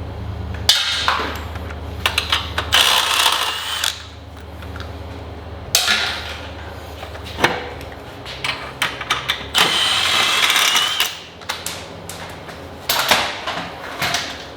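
Workshop tool noise: several bursts of a power tool, one of them a steady high whine lasting about a second, among sharp metallic knocks and clanks.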